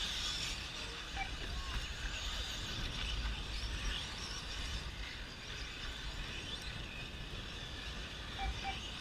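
A field of electric 1/10-scale short course RC trucks racing on a dirt track, their brushless motors and tyres making a steady high hiss, with a constant low rumble underneath.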